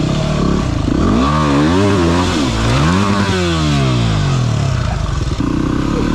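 Trail motorcycle engine revving up and down under repeated throttle changes, then falling in pitch for about a second from just past three seconds in as the throttle eases off, over steady wind rush.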